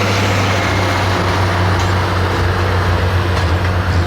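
Large diesel engine running at a steady speed, a loud low drone.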